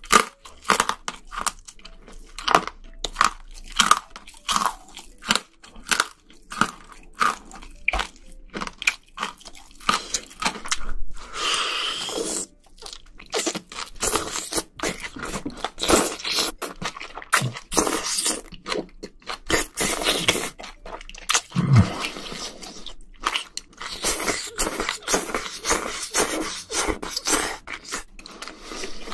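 A person eating close to the microphones: chewing with many short, crisp crunching bites.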